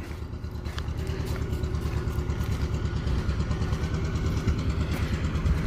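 Tractor engine running with a steady, fast-pulsing low rumble that slowly grows a little louder.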